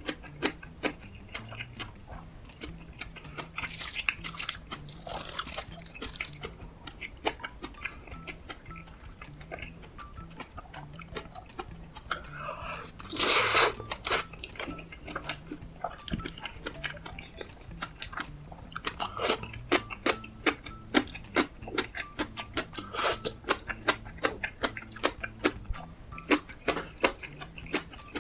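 Close-miked eating sounds: a person biting and chewing kimchi fried rice and sausages, with many quick wet mouth clicks and smacks, which get denser in the second half. A louder, longer noisy burst comes about halfway through.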